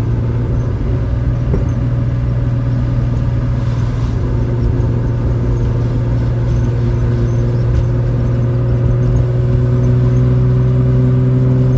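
Rebuilt air-cooled Porsche 911 3.0 flat-six with individual throttle bodies running under way at a steady engine speed, heard from inside the cabin with the window down.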